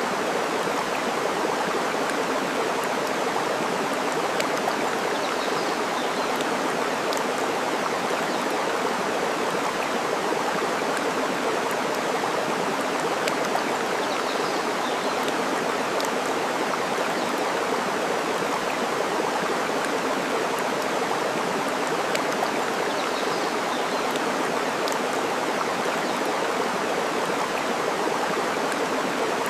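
Steady rush of flowing water, with scattered sharp crackles from burning wood and three faint, high bird chirps.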